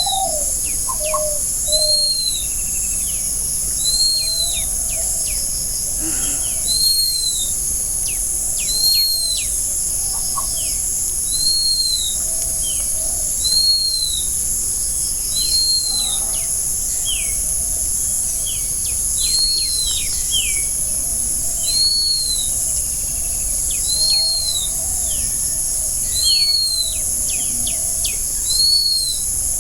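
Forest birds calling: one bird repeats a short, high, arched note about every two seconds, among other scattered short calls. Under them runs a steady high-pitched drone.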